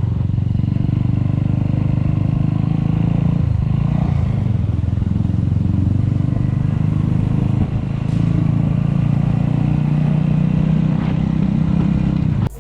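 Suzuki Thunder 250's single-cylinder engine running steadily while riding, with a brief dip in level about two thirds of the way through.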